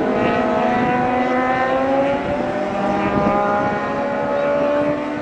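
Motorcycle engine running at high revs, its pitch rising steadily as the bike accelerates.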